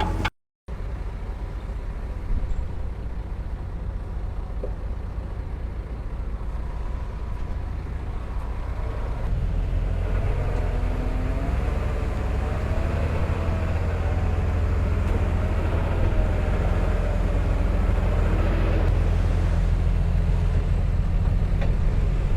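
Diesel engine of heavy earthmoving machinery running steadily. It grows louder about nine seconds in, when a wavering whine rises over the rumble for several seconds.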